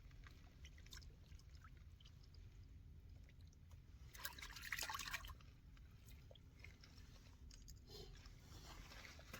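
Near silence with a faint low rumble, a few small clicks, and a brief soft noise lasting about a second, starting about four seconds in.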